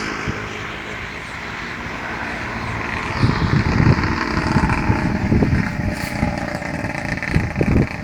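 Rice combine harvester's engine running steadily, with wind rumbling on the microphone from about three seconds in.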